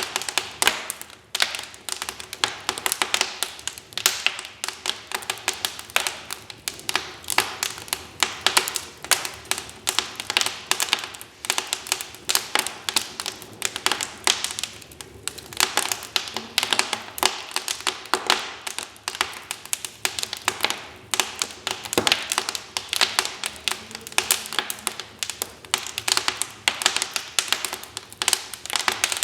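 Wood fire crackling: a dense, irregular run of sharp pops and snaps from burning logs.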